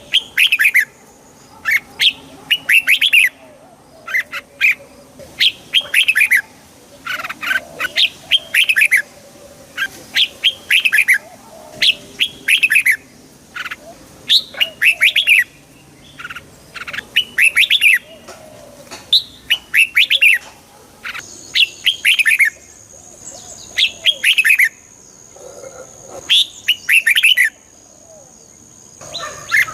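Red-whiskered bulbul singing: short, bright warbled phrases repeated about every two seconds.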